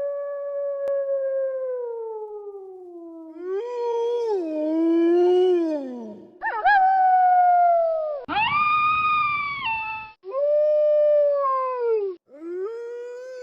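Wolves howling: a run of long howls that slide slowly up and down in pitch, one after another with brief gaps. Around four to six seconds in, two voices overlap.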